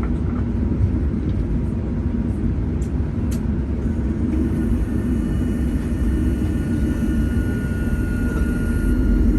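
Boeing 737-800 cabin noise: a steady low rumble, with a thin steady whine at several pitches coming in about four seconds in and holding.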